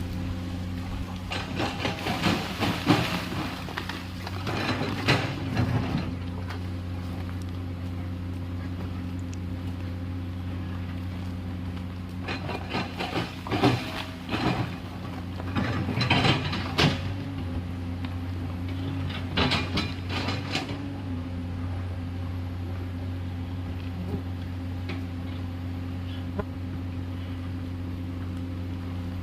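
Komatsu PC210LC excavator's diesel engine running at a steady pitch, with bursts of clatter and scraping every several seconds as the machine works.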